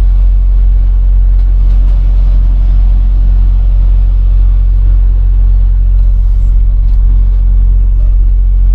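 Semi truck's engine and road rumble heard from inside the cab while driving, steady and low, with a brief hiss about six seconds in.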